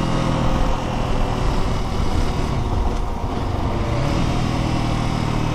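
Lifan X-pect 200's single-cylinder 198 cc engine running under way on the move, over steady wind noise. About three and a half seconds in, the engine note dips briefly and climbs back.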